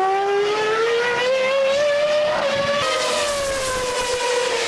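Formula One car engine running at high revs, its whine climbing slowly, dropping abruptly about three seconds in, then sliding lower.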